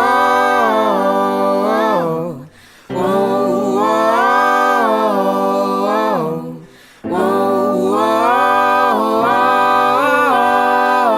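Wordless a cappella vocal harmonies: several voices hold and move through chords in three long phrases, with a short break after each of the first two.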